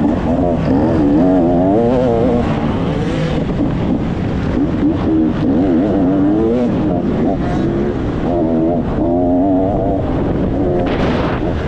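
Motocross bike engine revving hard, its pitch rising and falling over and over as it is ridden around the practice track.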